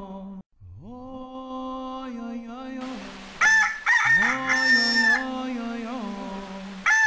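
Rooster crowing, loud, beginning about halfway through and starting again near the end, over a steady held droning tone.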